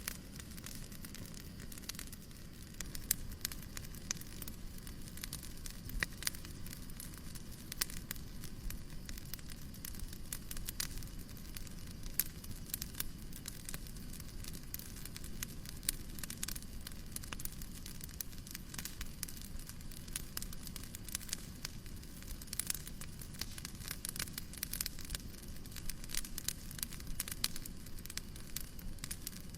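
Crackling fireplace: irregular sharp pops and crackles, many each second, over a steady low hiss of noise.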